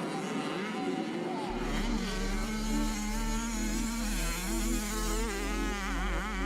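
Motocross dirt bike engines buzzing and revving, several pitches rising and falling. A steady low hum comes in about a second and a half in.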